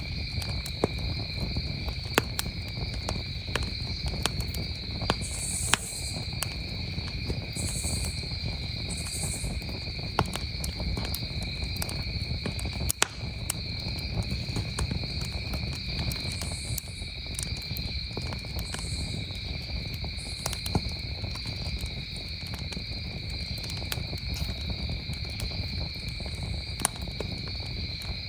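Campfire crackling, with sharp irregular pops, over a steady chorus of crickets trilling.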